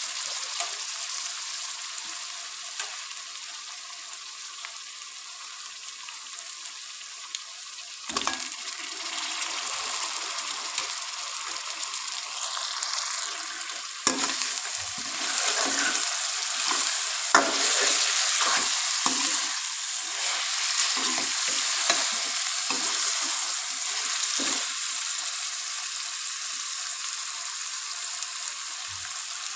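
Boiled beef chunks frying in hot oil with fried onion and ginger-garlic paste in a metal karahi, a steady sizzle. From about eight seconds in, a spoon stirs and scrapes the pan with occasional knocks, and the sizzle grows louder while the meat is turned.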